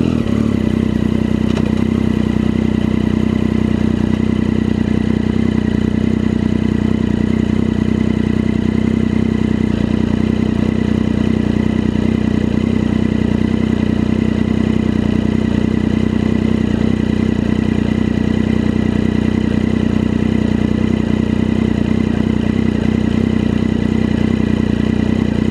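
An engine running at a steady speed, its pitch holding level throughout.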